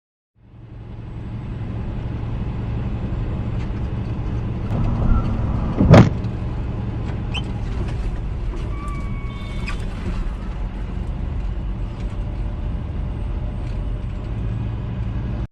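Steady engine and road noise of a car driving, with a single loud sharp bang about six seconds in, the impact of a collision.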